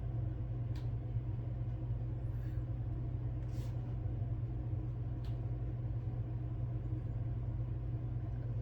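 Steady low background hum at a constant level, with a few faint light clicks about one, three and a half, and five seconds in.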